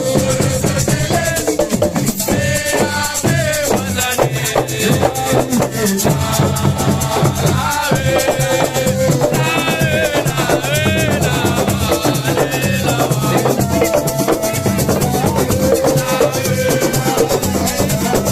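Assiko band music: a steady drum beat with a shaker or rattle keeping time, and a wavering melodic line over it.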